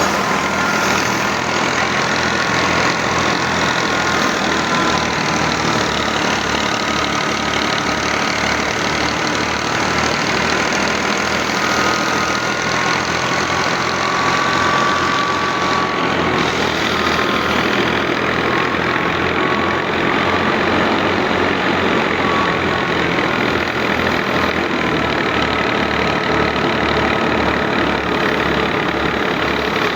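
Al-Ghazi tractor's diesel engine running steadily with an even low chugging, over a thin wavering higher whine.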